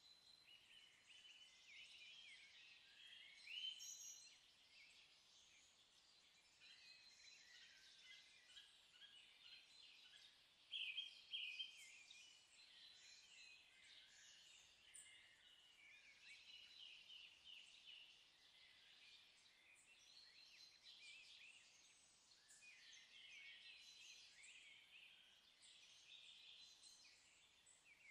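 Birds chirping faintly: a continuous stream of short, overlapping high chirps, with a few louder ones about four and eleven seconds in.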